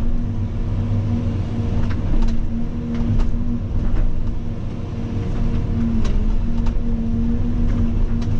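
Cat 336 hydraulic excavator's diesel engine running at a steady working speed, with a few short sharp knocks and clicks from the machine at work scattered through.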